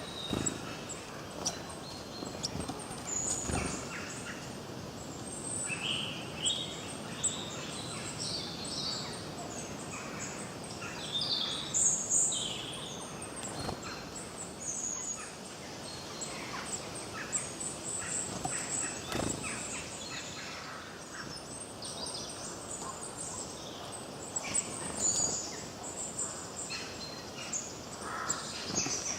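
Several songbirds chirping and singing, short calls and trills overlapping one another, over a steady background hiss.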